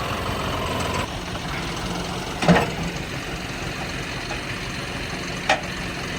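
Diesel tractor engine running steadily, with two brief louder sounds about three seconds apart.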